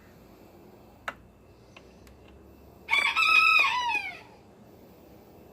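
A rooster crowing once, about three seconds in: a single call held level, then falling away at the end. A faint click comes about a second in.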